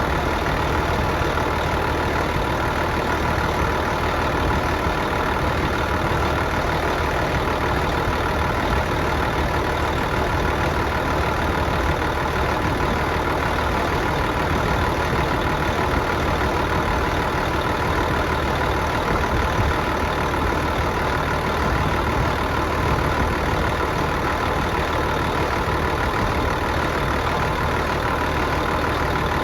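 Engine idling steadily, its note and level unchanging throughout.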